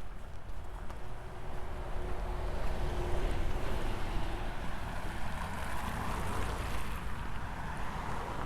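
A vehicle passing by on a city street: a steady rush of engine and tyre noise that swells through the middle.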